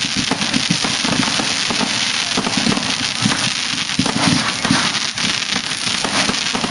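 Fireworks going off in rapid succession: a dense, continuous crackling with many sharp pops and reports packed close together.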